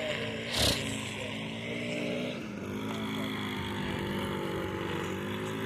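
Small petrol lawn-equipment engine running steadily, its pitch sagging briefly a couple of times as the load changes. There is a short sharp noise about half a second in.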